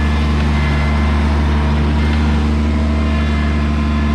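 Kubota BX2200 compact tractor's three-cylinder diesel engine running at a steady speed.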